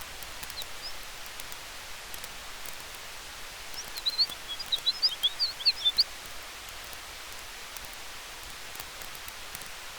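Campfire and forest ambience: a steady hiss of fire and wind with faint scattered crackles. About four seconds in, a quick flurry of high chirps, like a small bird, lasts around two seconds.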